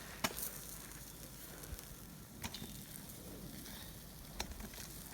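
Campfire crackling faintly, with a few sharp pops.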